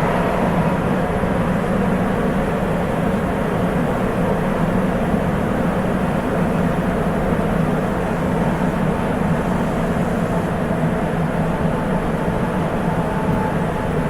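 Sapporo Municipal Subway 8000 series car running between stations at a steady speed: the steady rumble and hum of the rubber-tyred train, heard from inside the passenger car.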